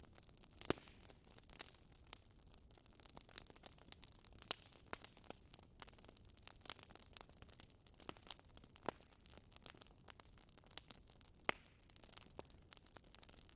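Wood fire crackling in a fireplace: quiet, irregular pops and snaps over a soft low hiss, with louder pops just under a second in and about eleven and a half seconds in.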